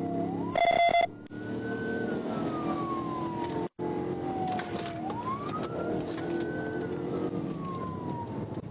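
Police car siren wailing, sliding slowly up and down in pitch over the patrol car's engine and road noise during a pursuit. A short, loud, steady horn-like blast sounds about half a second in, and the audio cuts out for an instant near the middle.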